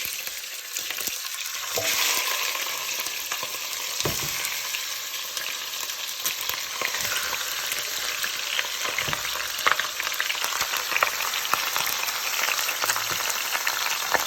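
Seasoned meat sizzling steadily in hot oil in a pot, with a few light knocks and clicks from time to time.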